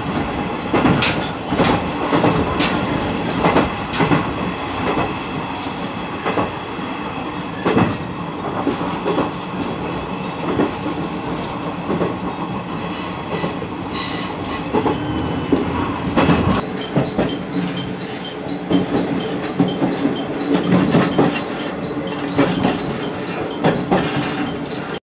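Diesel railcar running along the line, heard from inside the carriage: a steady rumble with the wheels clicking over the rail joints about once a second.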